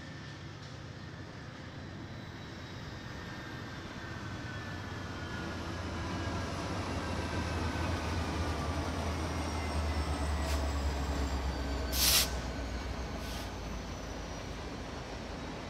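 CN diesel-hauled freight train drawing near: a low locomotive rumble grows louder toward its peak about ten seconds in, with faint high squealing tones from the wheels sliding down in pitch. A brief sharp burst of hiss-like noise about twelve seconds in is the loudest moment.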